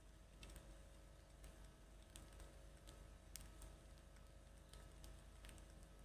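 Near silence with faint, irregular clicks, about a dozen, over a low steady hum.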